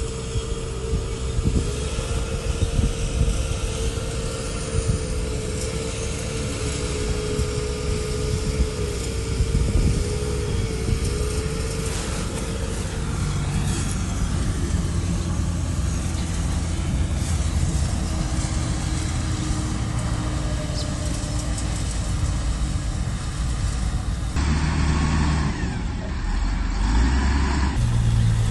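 Heavy diesel earthmoving machinery running and working, with a wavering whine over the engine for the first twelve seconds or so; the sound changes about 24 seconds in.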